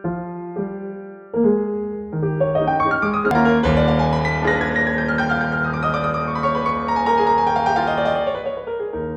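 Background piano music: a few repeated chords, then a fuller passage with a long descending cascade of notes.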